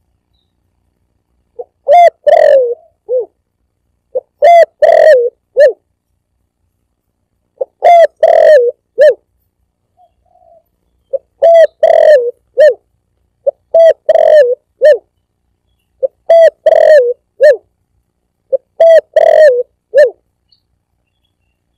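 Spotted dove cooing: a phrase of several low coos, about a second long, repeated seven times with short silent gaps between.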